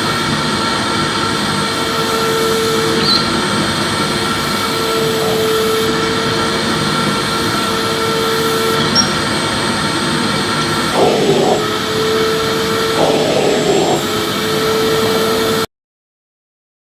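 Vacuum cleaner motor running steadily: a dense whooshing rush with a steady whine. There are two short rattling flutters about eleven and thirteen seconds in, and the sound cuts off suddenly a second before the end.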